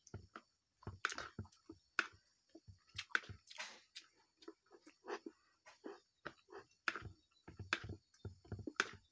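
Close-up chewing and lip smacking of a mouthful of rice and vegetables, mixed with irregular clicks and scrapes of a metal spoon against the plate, a few sharp sounds a second.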